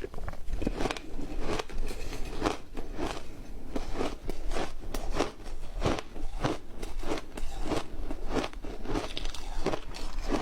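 Chewing crunchy matcha ice, close up: a steady run of crisp crunching bites, about two or three a second.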